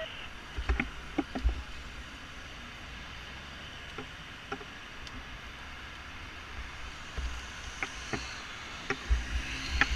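Steady street and traffic noise with low rumbles and a few short, sharp clicks and knocks.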